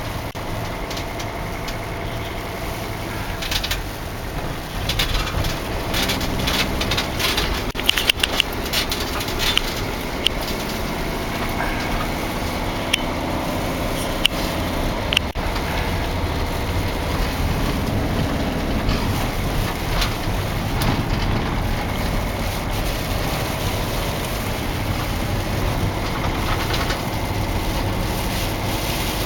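A 2005 Dodge Sprinter's five-cylinder turbo diesel running steadily under the road noise of driving on snow, heard from inside the van, with a run of sharp clicks and knocks from about 5 to 15 seconds in.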